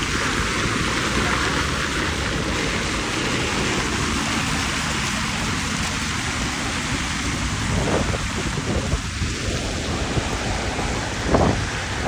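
Steady rushing noise of rain and wind on the microphone while riding a scooter in the rain, with a low rumble underneath. Two brief knocks come about eight and eleven and a half seconds in.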